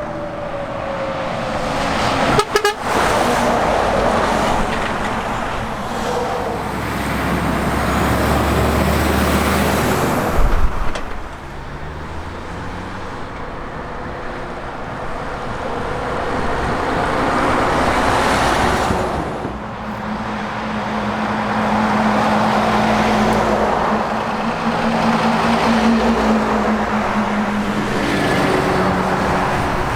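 Heavy trucks passing on a road one after another, their diesel engines and tyres swelling and fading as each goes by. There is a quick rattle of sharp clicks about two and a half seconds in and a sudden knock about ten seconds in.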